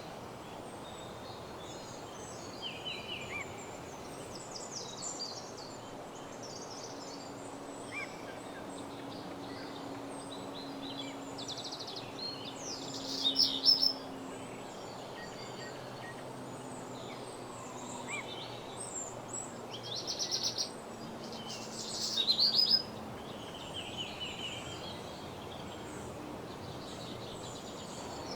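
Woodland birdsong: several birds singing short phrases, with loud rapid trills about 13, 20 and 22 seconds in, over a steady background hiss. A faint low hum runs through the middle.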